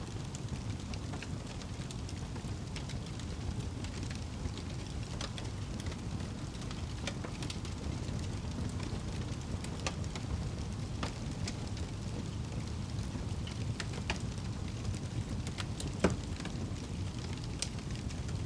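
Wood fire burning in a fireplace: a steady low rumble of flames with scattered crackles and pops, one sharper pop about sixteen seconds in.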